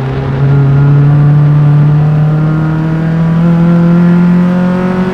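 Single-seater Formula Enterprise race car engine at full throttle, heard close up from engine-mounted mics. Its note rises steadily as the car accelerates, with a brief drop in loudness near the end.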